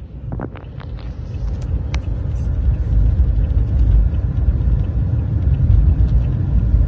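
Low vehicle rumble that builds over the first three seconds and then holds steady, with a few sharp clicks in the first two seconds.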